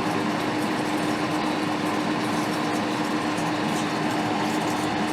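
Steady fan noise, an even whirring hiss with a constant low hum under it.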